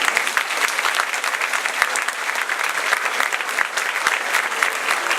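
Audience clapping steadily: dense, even applause from a hall full of people.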